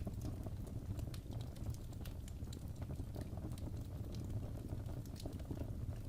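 Wood fire burning in a fireplace: a steady low rumble of flame with frequent irregular crackles and small pops from the burning wood.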